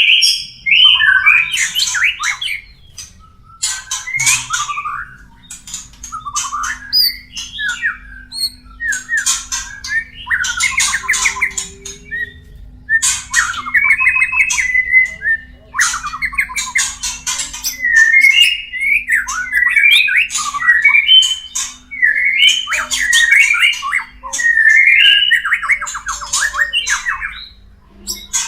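White-rumped shamas (murai batu) calling in courtship: a run of harsh, buzzy chattering phrases, each about a second long, with sharp clicks in between.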